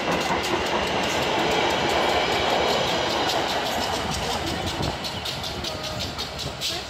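Passenger train coaches running past close by, with the steady noise of wheels on rails and rhythmic clicks over the rail joints. It fades from about four seconds in as the train moves away.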